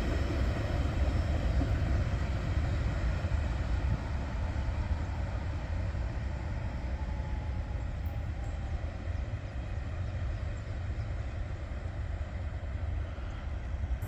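Train rolling past: a steady rumble of wheels on rail that eases slightly partway through.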